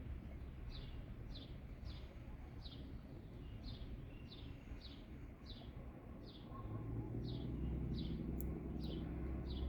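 A bird repeating a short, falling chirp over and over, about one and a half calls a second, over a low steady rumble that grows slightly louder about two thirds of the way in.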